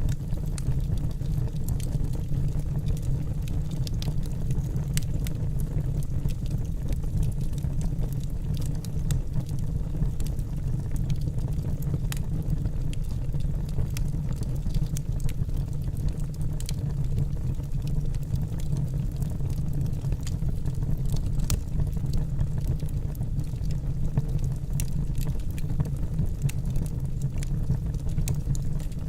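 Wood fire burning in a fireplace: a steady low roar with irregular, sharp crackles and pops from the burning logs.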